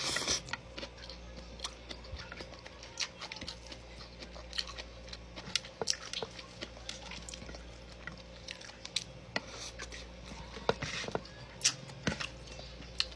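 A person chewing and eating rice and chicken by hand, with irregular small wet clicks and smacks.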